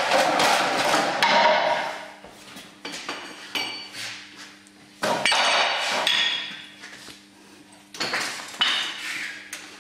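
Metal knocking and clinking on an upside-down bicycle as it is worked on by hand: about eight separate sharp clanks, each with a short metallic ring. A rough scraping noise fills the first second and a half.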